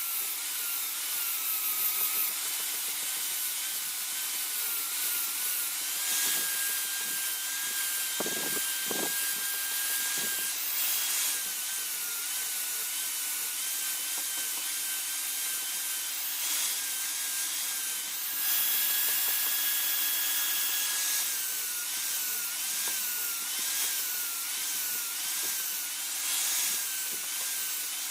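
Power tool grinding or sanding: a continuous scraping hiss over a thin motor whine that wavers up and down as the work is pressed against it, with a few brief knocks about eight to ten seconds in.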